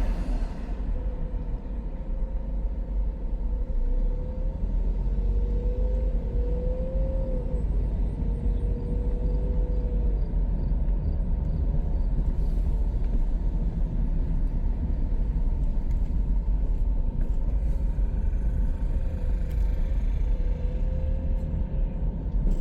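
A car being driven, heard from inside the cabin: a steady low road-and-engine rumble with a faint wavering tone above it.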